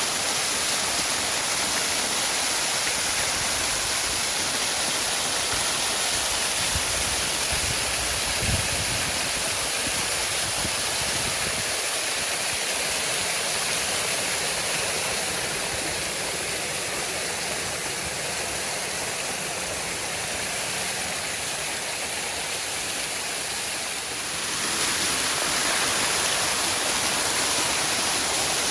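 Waterfall: a steady rush of falling water, with a few brief low thumps about eight seconds in.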